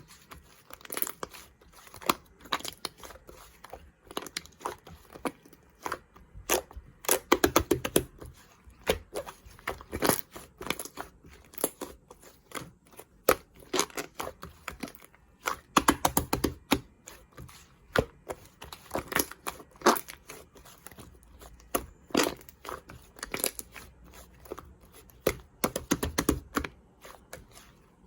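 Slime being squished and stretched by hand, giving dense, irregular clusters of crackling pops and clicks.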